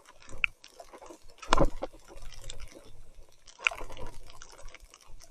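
Wet splashing and squelching of mountain bike tyres through mud and puddles in heavy rain, as a patter of irregular splats. There is a loud knock about one and a half seconds in and a smaller one near the end.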